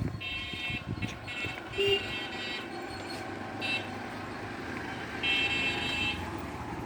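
A vehicle horn sounding in about five short, high-pitched blasts, the longest near the start and one near the end, over a low traffic rumble.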